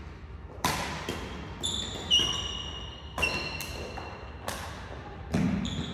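Badminton doubles rally: a run of sharp racket hits on the shuttlecock, about eight in all, echoing in a hall. Shoes squeak briefly on the court floor between shots.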